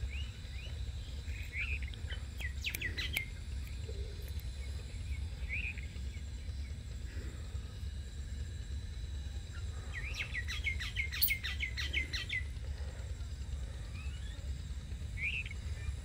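Birds chirping: scattered short high chirps, then a quick run of about a dozen chirps around the middle, over a steady low rumble.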